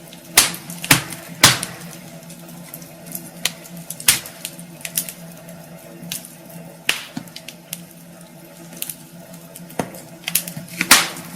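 Wood fire crackling in a fireplace: irregular sharp pops and snaps of burning logs, the loudest a cluster in the first second and a half and another about eleven seconds in, over a faint steady hum.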